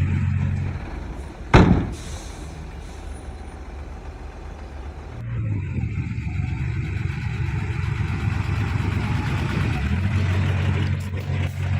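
Heavy diesel engines of a bulldozer and dump truck running under load, with one sharp loud burst about a second and a half in. The engine sound drops away after the burst, then comes back and grows stronger near the end.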